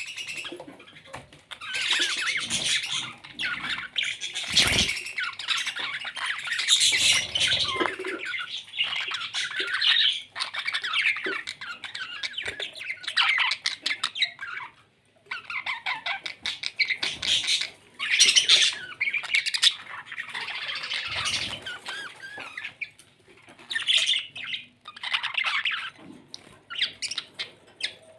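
Parrots calling in rapid, harsh, high-pitched squawks, one call after another with a few brief pauses.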